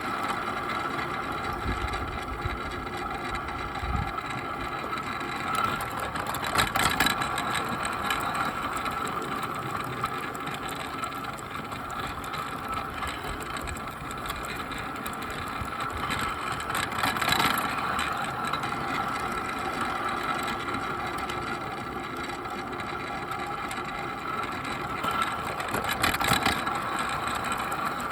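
Bachmann Percy garden-railway model locomotive running steadily, its electric motor and gears giving a constant whine, with three brief louder rattles about ten seconds apart.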